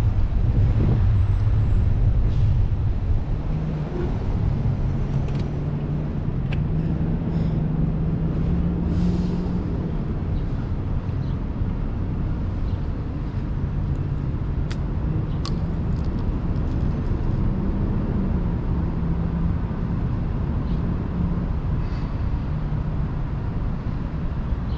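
Motor vehicle engine running steadily with a low hum that drifts slightly in pitch, amid street traffic.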